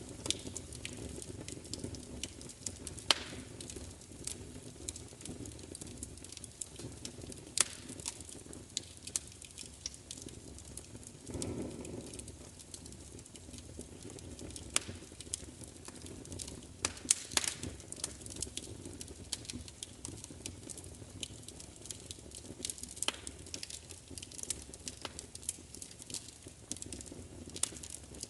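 Wood fire crackling, with frequent irregular sharp pops and snaps over a steady low rumble of the burning. A brief, louder low whoosh comes about twelve seconds in.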